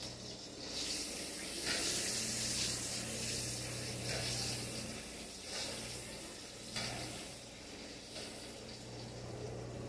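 Chicken frying in a pan: a steady sizzle that swells and eases, with a few short clicks along the way.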